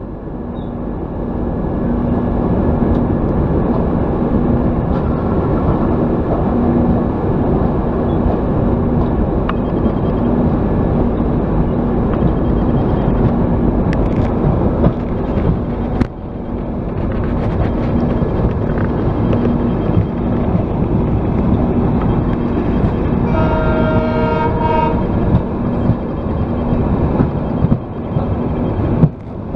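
Passenger train running at speed, a steady rumble of the coach on the track. About three-quarters of the way through, the locomotive's horn sounds for about two seconds.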